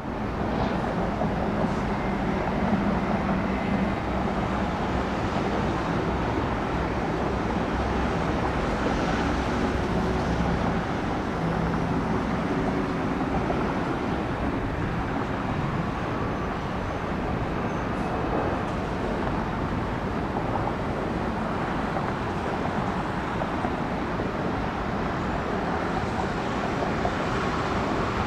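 Steady, even jet engine noise of an airliner arriving at the airport, holding level with no clear rise or fall.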